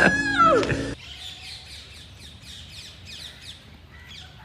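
A loud, drawn-out call that rises and falls, cut off about a second in. Then a flock of small birds chirping: rapid short falling chirps, about three a second.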